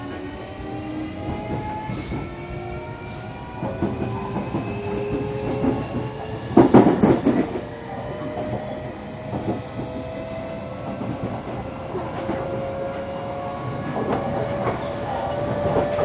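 Running sound inside a JR Kyushu 305 series electric train's motor car: the VVVF inverter and traction motors whine in several tones that climb slowly in pitch as the train gathers speed, over steady wheel-on-rail rumble. A loud rattling clatter comes about six and a half seconds in.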